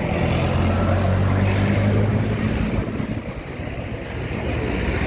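Engine running with a low, steady hum. It fades about three seconds in, and another engine drone builds near the end.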